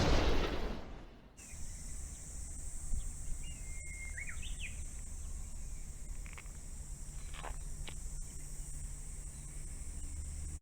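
A loud boom dying away over the first second, then a steady, high-pitched insect chorus with a few short bird chirps over a low rumble.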